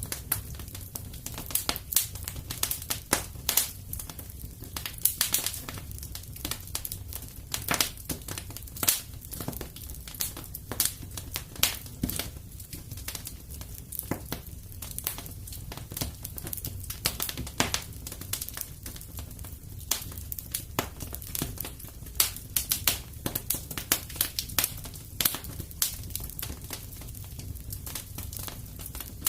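Wood fire crackling in a fireplace: a steady run of irregular sharp pops and snaps over a low, steady rumble.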